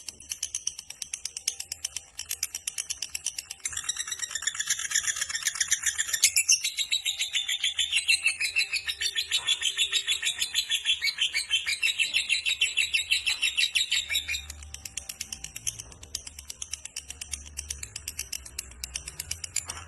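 Lovebird giving a long 'ngekek', a rapid chattering run of sharp high chirps. It is strongest from about four seconds in to about fourteen, then goes on as a softer chatter.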